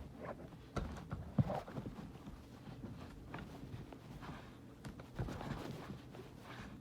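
Hands working on a plastic toy while taping over its battery compartment: scattered light knocks and clicks against the plastic with soft rustling of tape in between.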